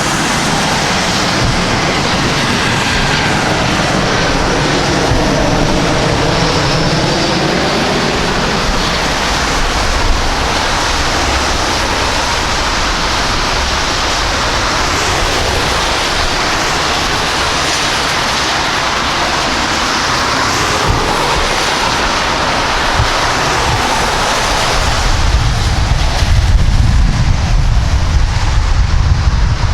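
Jet airliner's engines roaring as it passes, the pitch sweeping as it goes by, with a deeper rumble growing louder near the end.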